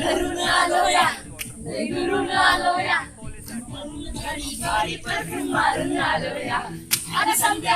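A group of people singing together without instruments, several voices at once, with a couple of sharp clicks.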